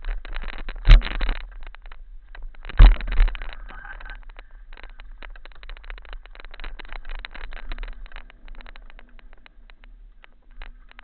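Mountain bike clattering down a rocky, loose descent: a dense rattle of chain, frame and tyres over stones, with two hard knocks about a second in and near three seconds in, easing to a lighter rattle after.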